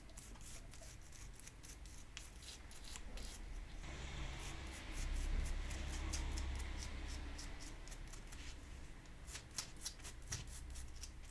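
Faint scrubbing of small diecast toy-car parts with a brush, rubbing off paint softened by soaking in Dettol, with scattered light clicks and taps as the parts are handled. The scrubbing is a little louder from about four seconds in, easing off near the end.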